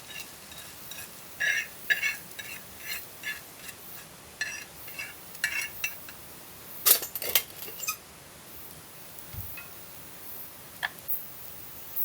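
A metal utensil tapping and clinking against cookware in a run of light ringing taps, like stirring, with a few sharper clatters about seven seconds in and then a couple of sparse knocks.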